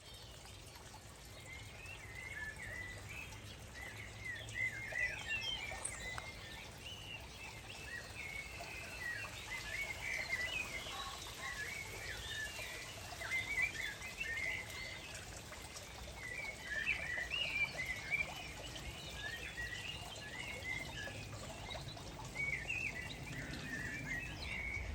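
Birds singing: a continuous run of short chirps and warbling phrases, with a faint low background rumble underneath.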